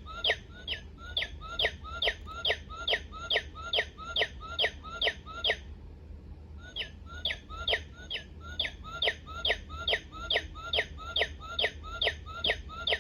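Recorded northern cardinal song played by a singing bird clock: quick downslurred whistles repeated about three a second in two long runs, with a short break about six seconds in.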